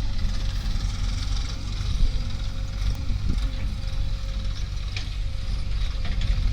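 Heavy diesel engine of earth-moving machinery running steadily: a low rumble with a faint steady whine, and a few brief clatters.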